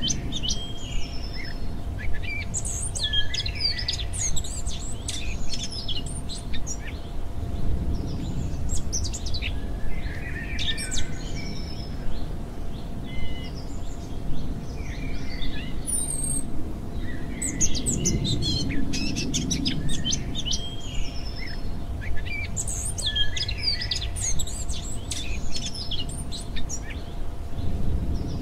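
A nature-sounds birdsong recording: several birds chirping and singing over one another in short, quick phrases, with a faint steady hum underneath.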